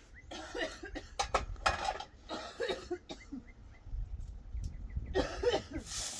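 A woman with a bad cold coughing harshly in several fits: three close together in the first three seconds, then another near the end.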